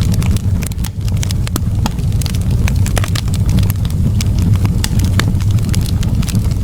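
Wood fire in a fireplace crackling: many sharp, irregular pops and snaps over a steady low rumble of burning.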